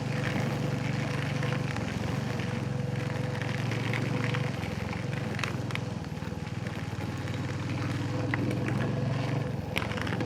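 Royal Enfield Hunter 350's single-cylinder engine running steadily, its note easing and picking up again a few times.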